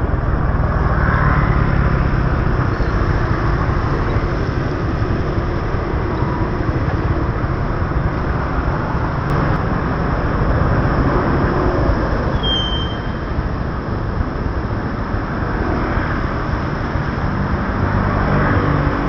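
Steady rumble of a motorbike ride on rain-wet city streets: wind and road noise, with traffic and engine tones swelling near the start and again near the end. A brief high squeak sounds about twelve seconds in.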